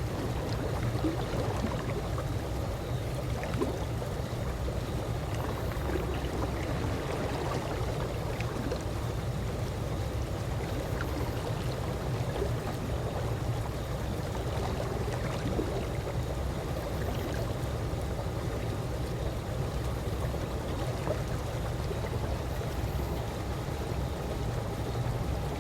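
Calm pool water lapping and gently sloshing, a steady low wash with small scattered splashes and gurgles.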